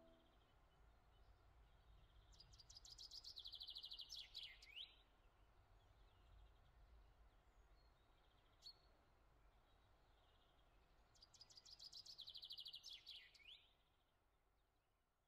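Faint bird song: two similar phrases about eight seconds apart, each a fast high trill ending in a few quick down-slurred notes, over a low steady background hiss.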